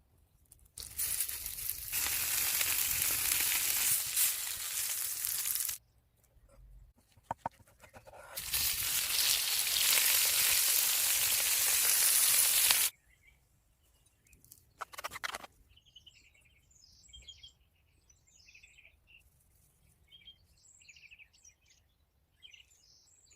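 Food sizzling hard in a hot pan in two stretches of about five seconds each, each cut off abruptly. Faint bird chirps follow in the last several seconds.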